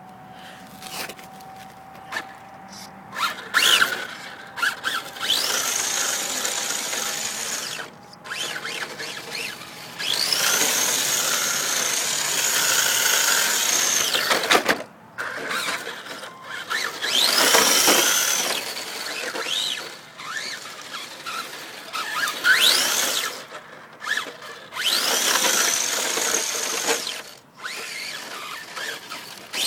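HPI E10 electric RC drift car's motor whining up in pitch as it accelerates, holding high, then dropping away, again and again in runs of a few seconds each.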